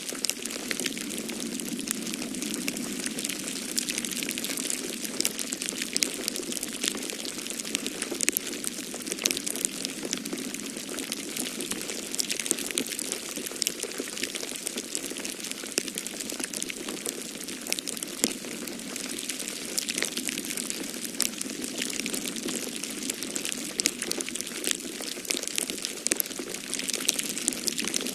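Wood fire crackling in a fireplace, a dense run of small irregular pops and snaps, over a steady low rush of storm wind.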